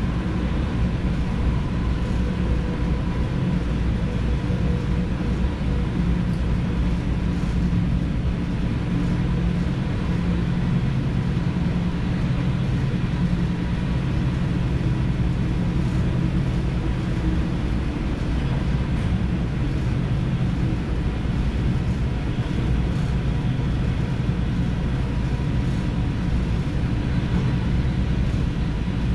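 Dutch DDZ double-deck electric train running steadily, heard from inside the driver's cab: an even low rumble of wheels on rail and running gear, with a faint steady whine above it.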